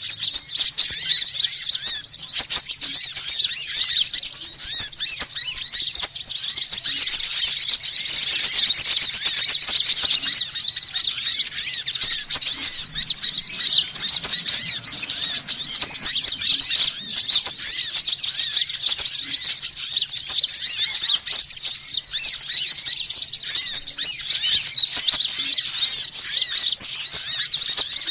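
Dense, non-stop chattering chorus of many small songbirds, a mix of rapid high chirps and twitters. It is a bird lure call (pikat) for drawing small birds such as sunbirds.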